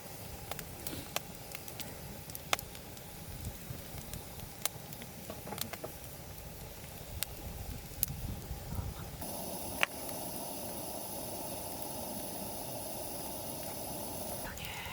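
Campfire crackling: scattered sharp pops of burning wood. About nine seconds in, a steady hiss joins and holds.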